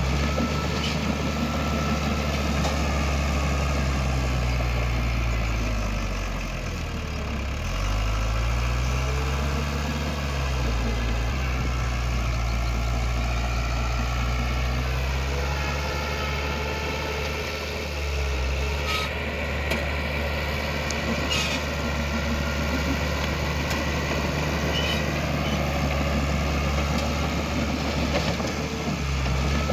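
Heavy diesel engine of earth-moving machinery running throughout, its engine speed dipping and rising again as it takes load, with a couple of sharp metallic clanks in the second half.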